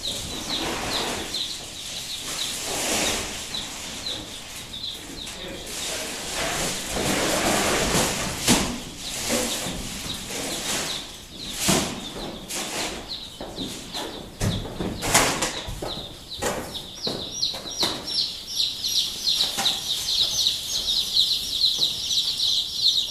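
A brood of young chicks peeping continuously, their high chirps growing denser over the last few seconds. Over them come rustling, scraping and sharp clicks and knocks from the brooder's cover being handled.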